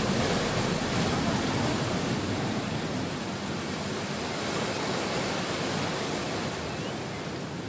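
Sea surf washing onto the shore as a steady rushing noise that gradually eases off toward the end.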